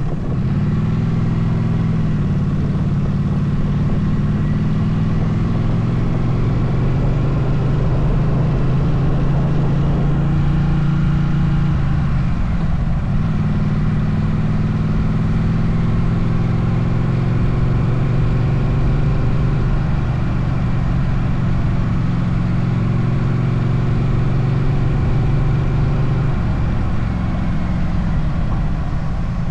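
Motorcycle engine running under way, its note breaking and shifting pitch three times as the rider changes gear, over steady wind and road noise.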